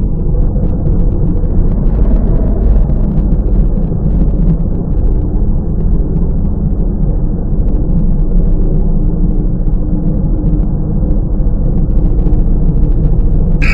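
In-bay automatic car wash running: a steady, loud rumble of machinery and spraying water, with a faint hum of a pump or motor underneath.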